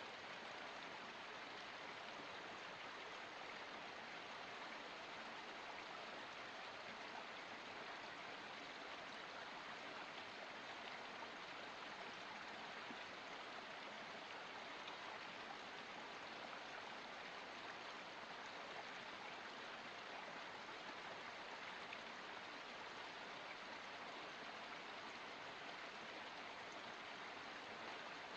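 Water of a forest spring running steadily: an even, unbroken rush of flowing water.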